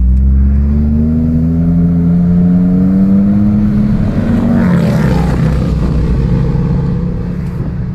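2016 Ford F-150's 3.5 L twin-turbo EcoBoost V6 accelerating through a custom 3-inch stainless catback exhaust with Thermal Dynamics mufflers. The engine note climbs for about four seconds, drops sharply as the transmission shifts up, then holds steadier and eases off near the end.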